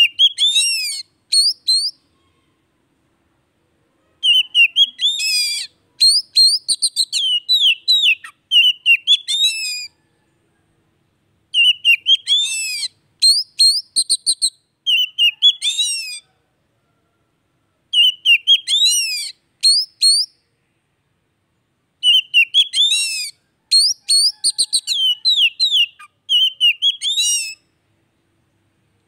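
Oriental magpie-robin (kacer) singing in bursts of quick, varied whistled notes that sweep up and down, several phrases a few seconds long with short silent gaps between them. It is played as a lure to set a silent kacer singing.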